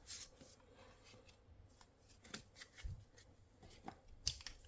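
Faint, scattered slides and taps of a stack of trading cards being handled.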